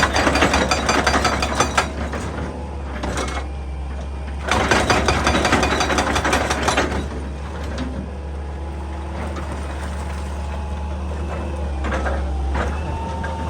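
Excavator working earth and rock: a steady engine hum underneath, with two loud bursts of rapid crunching and clattering, one at the start and one a few seconds later.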